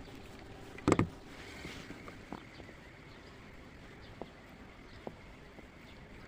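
Small creaks and knocks of an inflatable rowing boat on the water, with one louder short sound about a second in and a few faint clicks after it.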